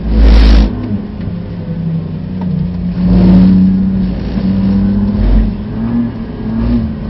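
BMW F80 M3's twin-turbo straight-six heard from inside the cabin, running lighter as the car slows through a bend and then pulling again with the pitch rising near the end. Two loud rushing bursts of noise cut across it, one right at the start and one about three seconds in.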